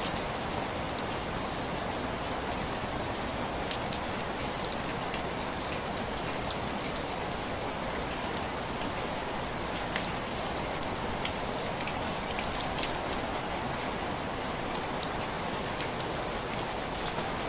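Steady rain on window glass: an even patter with many scattered sharp drop taps.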